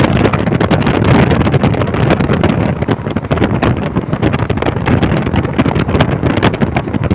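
A moving train: a steady rumble with irregular clattering knocks, mixed with wind buffeting the microphone.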